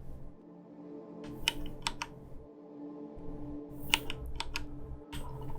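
Computer keyboard keys pressed in scattered single strokes and short pairs, over faint steady background music.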